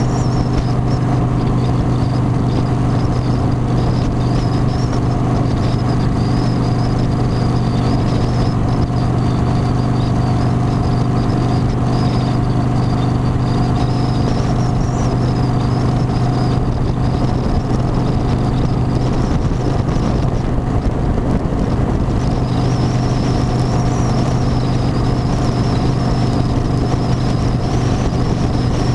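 Harley-Davidson motorcycle's V-twin engine running at a steady speed, its note holding constant, with a thin high whine wavering above it.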